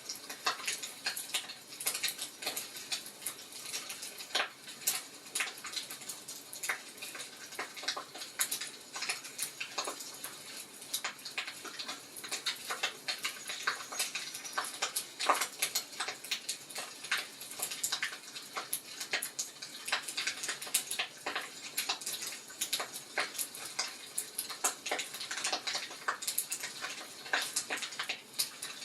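Wood fire crackling in a fireplace: irregular snaps and pops over a soft steady hiss.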